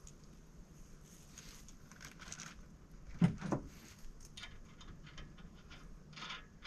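Light scattered clicks and rattles of metal parts and hardware being handled, with two louder knocks a little past three seconds in.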